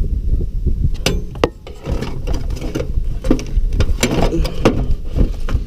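A run of knocks, clicks and scraping from hard objects being handled, over a low wind rumble on the microphone.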